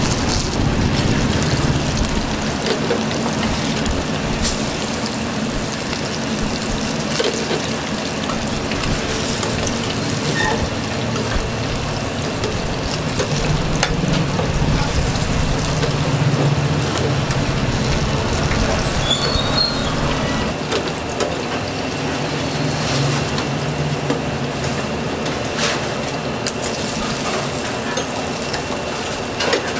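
Fried rice frying and sizzling in a wok, with occasional sharp clicks.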